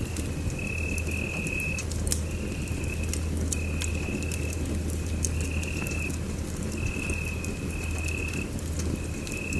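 Wood fire crackling in a fireplace: irregular sharp pops over a low steady rumble of flame, with a thin high whistle that comes and goes.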